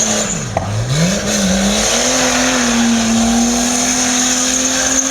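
A car engine held at high revs over a steady tyre squeal, as in a drift. The engine note drops sharply and comes back up within the first second, then holds high and climbs slowly.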